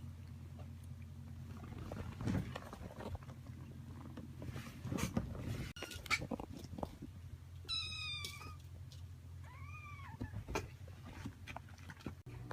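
A domestic cat meowing twice, two short calls about two-thirds of the way in. Scattered rustles and small knocks sound over a low steady hum.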